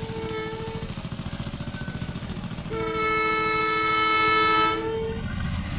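Arjuno Ekspres locomotive's horn: a two-note blast that stops about a second in, then a louder blast of about two seconds, over the low rhythmic rumble of the train.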